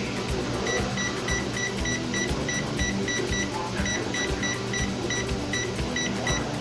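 Electronic oven control beeping: short high beeps in quick succession, about four a second, with a brief pause around the middle, as a 25-minute bake time is keyed in.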